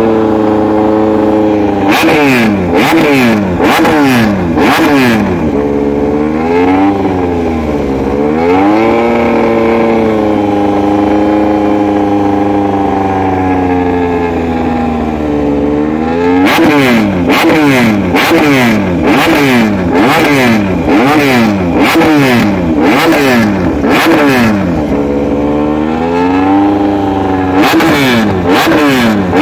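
Honda RC213V-S's V4 engine being revved in place: runs of quick throttle blips, each rev rising sharply and falling back, with a few seconds held at a steady raised speed in the middle before the blipping starts again.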